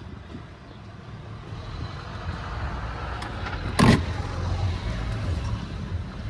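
Low rumble of a running car engine that grows louder over the first few seconds, with a single thump just before four seconds in as the loose plastic under-tray hanging beneath the car is handled.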